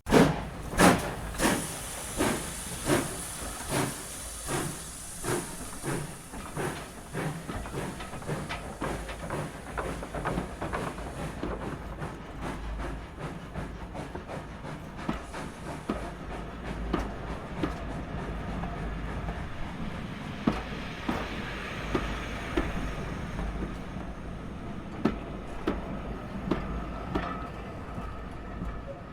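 A train rolling on rails, its wheels clacking over rail joints in a steady repeating rhythm over a low rumble, with a high hiss through the first half.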